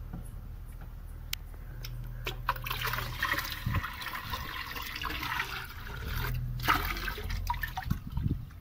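Water pouring and splashing into a filled tank as fish are tipped in from a container. The pouring runs for several seconds from about two seconds in, with a few light knocks.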